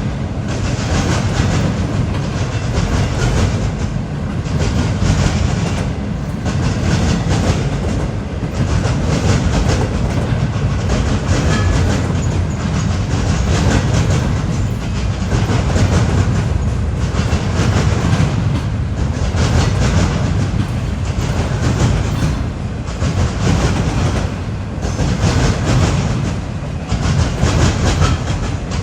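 Freight train cars rolling past, steel wheels clattering over the rail joints, the noise dipping briefly every two seconds or so.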